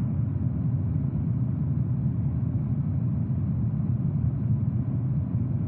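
Aircraft engines in flight, a steady low rumble with no change in pitch or level.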